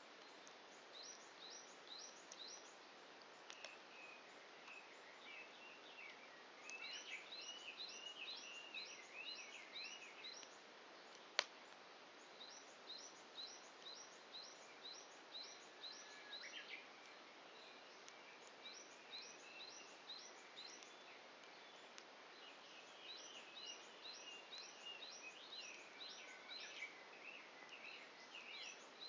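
Faint outdoor ambience of birds: series of quick high chirps repeated about three times a second in phrases of several seconds, with lower warbling calls between them. A single sharp pop from the burning firewood about eleven seconds in.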